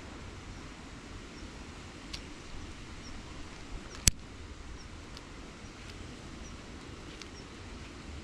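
Faint high chirps from a small animal repeating about once a second over steady low background noise, with one sharp click about four seconds in.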